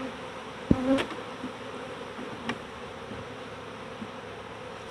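Many honey bees buzzing steadily around an opened hive, agitated and very angry. A sharp thump sounds about a second in.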